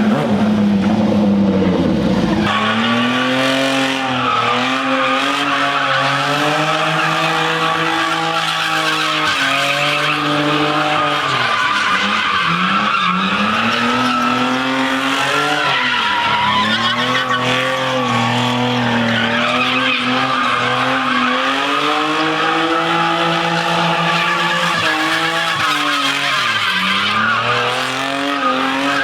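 A vehicle doing a burnout: the engine is held at high revs with the tyres squealing continuously, the revs sagging and coming back up several times. The sound changes abruptly about two and a half seconds in.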